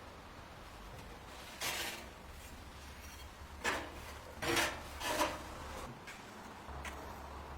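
A handful of short scraping, rubbing noises from hand work on an old gas heater, coming about a second apart, over a faint low hum.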